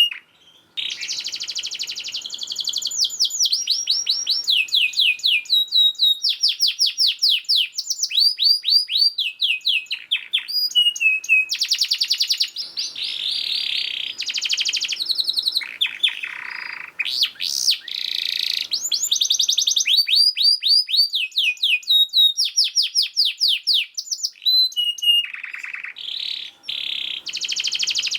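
Male domestic canary singing a fast, dense song: rapid trills of quick falling notes, phrase after phrase with barely a pause, with a few harsher, buzzy rolls in the middle.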